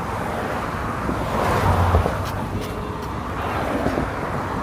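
Road traffic, with a car passing close by. It is loudest about a second and a half to two seconds in, over steady traffic noise.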